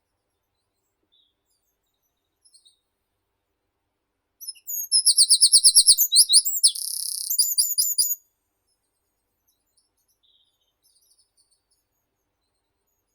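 A small meadow songbird singing one song phrase: a run of about a dozen quick, evenly repeated high notes, then a short buzzy stretch and a few closing notes. Faint chirps of other birds come before and after it.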